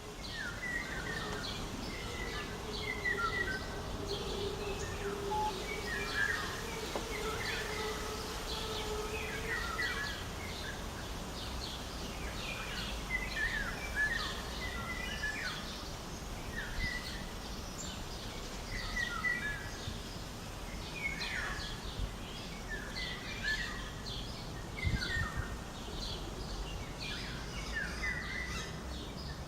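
Several birds singing together, with short chirps and trills overlapping all the time, over a low steady background rumble. A low steady hum fades out about ten seconds in.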